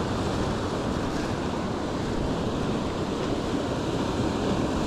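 Steady wash of surf on the beach, with wind buffeting the microphone.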